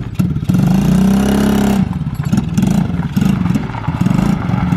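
An engine running and revving. It cuts out briefly with a clatter at the start, swells and falls in pitch about a second in, then runs rough and uneven.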